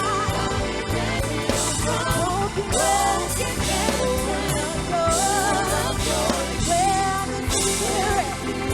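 Live gospel praise and worship music: singing over a band with drum kit, bass and keyboard.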